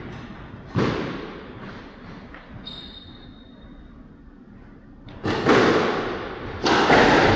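Squash rally in an echoing hall: a sharp crack of the ball being struck about a second in, a short shoe squeak on the court floor a couple of seconds later, then a louder, denser run of ball hits and thuds in the last two seconds.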